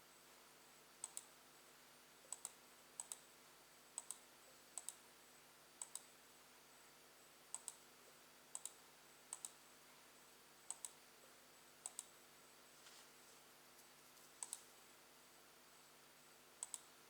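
Faint, sharp clicks of computer buttons, about a dozen at irregular intervals over a couple of seconds apart, many of them heard as a quick press-and-release pair.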